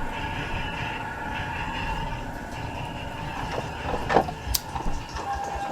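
Steady vehicle road noise from a dashcam-style crash clip, with a few sharp knocks about four seconds in and a thin steady tone starting near the end.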